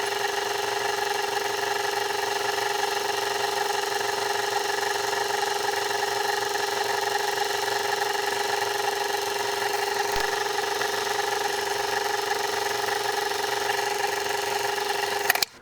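Motor of a metalworking machine running at one steady speed with a constant whine while drilling a tapping hole for an M5 thread; a single click about ten seconds in, and the sound stops suddenly near the end.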